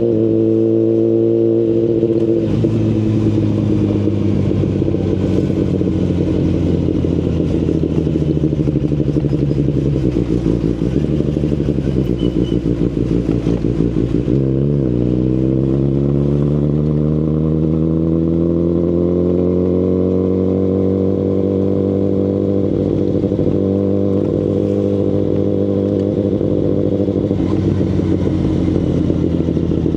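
2019 Kawasaki Ninja ZX-10RR inline-four through an Akrapovic Evolution Line full exhaust, under way. The engine note drops sharply at the start and then sinks slowly for several seconds. About halfway it dips briefly, then climbs steadily for several seconds and holds even to the end.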